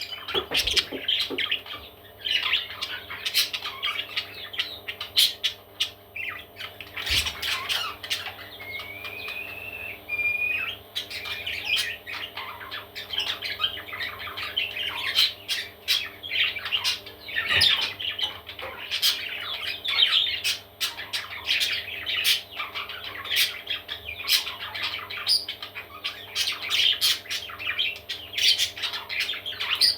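Parrot chicks squawking continuously, many rapid raspy calls overlapping, with a short rising whistle about ten seconds in.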